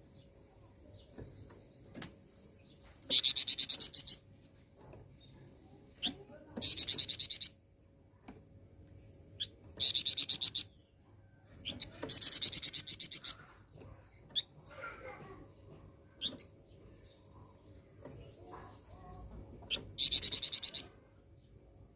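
Flamboyan songbird singing: a fast, rapidly pulsed high trill about a second long, repeated five times a few seconds apart, with faint short calls in between.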